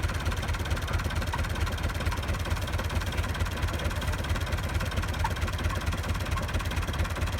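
Tractor engine running steadily at idle, with an even low throb.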